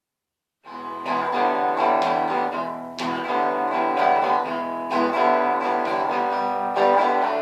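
Acoustic guitar strumming chords as the song's instrumental intro, starting after a short silence.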